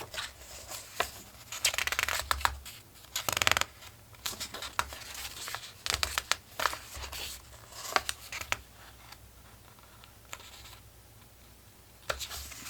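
Paper pages of a collage book being turned and handled: crisp rustles and short snaps of paper, busiest in the first few seconds and dying down to a lull near the end.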